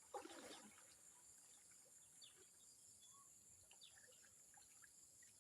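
Faint steady high-pitched chirring of crickets and other insects, with a brief louder noise just after the start.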